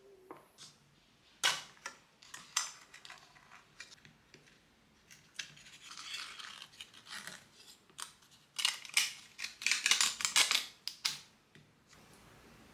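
Close-up handling noises: irregular short scrapes, rustles and clicks, coming thickest for a few seconds near the end.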